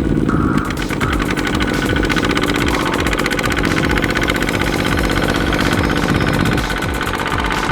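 Small two-wheel farm tractor's diesel engine running steadily, with a fast, even chugging.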